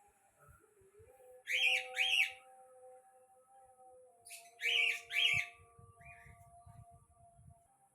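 Pet bird giving loud whistled calls in two pairs, each call rising and falling in pitch, the first pair about a second and a half in and the second about five seconds in.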